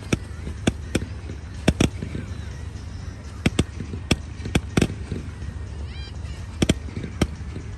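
Low-noise display fireworks going off: about a dozen sharp bangs at irregular intervals, some in quick pairs.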